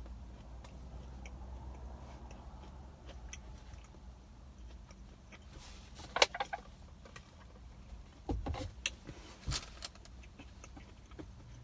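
A crunchy s'mores cookie being handled, bitten into and chewed close to the microphone. Scattered small crackles build to sharp crunches about six seconds in and again from about eight to nine and a half seconds in, over a low steady hum.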